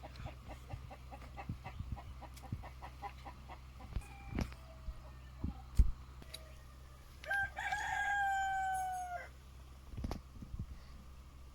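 Chickens: a run of quick, evenly spaced clucks, then a rooster crowing once, a long held call of about two seconds past the middle. A few sharp knocks in between, the loudest just before the crow.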